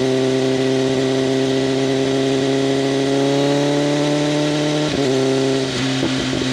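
BMW M1000RR inline-four sport bike engine running through an SC-Project CRT exhaust, its note slowly rising under steady throttle. About five seconds in the note breaks off and turns choppy and lower, with crackling pops from the exhaust.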